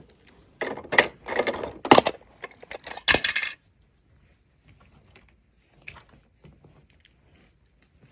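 Small plastic toys clattering and knocking together: a quick run of sharp knocks over the first three and a half seconds, then only a few faint ticks.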